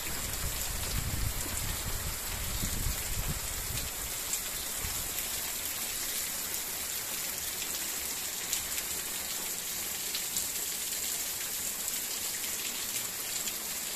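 Heavy rain falling steadily on vegetation and open ground, a constant hiss. A low rumble comes and goes in the first few seconds.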